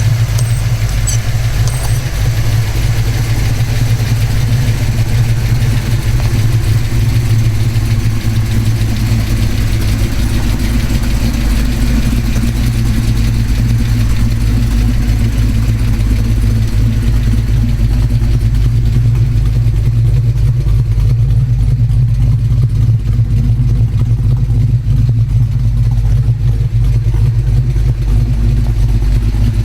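1972 Chevelle's 396 big-block V8, with headers and dual exhaust, idling steadily.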